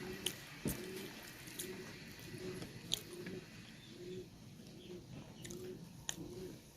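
Close-miked eating of rice and chicken curry: chewing with sharp wet mouth clicks and smacks. Under it runs a soft low coo-like sound repeating about every 0.7 seconds.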